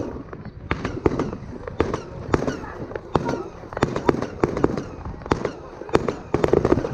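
Fireworks display: aerial shells bursting in quick succession, a steady run of sharp bangs that often come in tight clusters of several at once.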